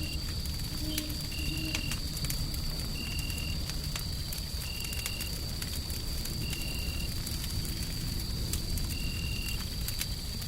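Wood fire crackling with scattered sharp pops over a steady low rumbling noise, layered with a steady high whine and a short high chirp that repeats about every second and a half.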